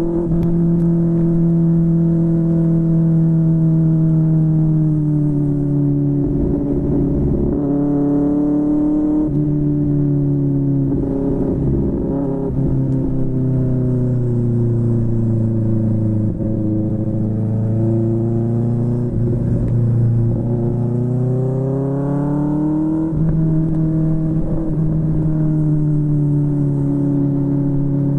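QJMotor SRK600's inline-four engine running through a Yoshimura R11 exhaust while riding. The engine note rises and falls slowly, drops abruptly about nine seconds in and jumps back up near the end as gears change, with scattered crackles in between.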